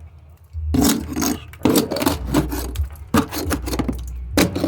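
Hand paint scraper run across painted wood, a series of scraping strokes that start just under a second in, stripping old loose paint before repainting.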